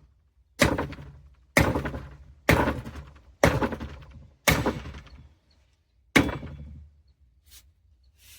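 Sledgehammer blows driving the brake piston into the excavator's travel motor housing: six heavy strikes about a second apart, each ringing briefly, then two much lighter hits near the end.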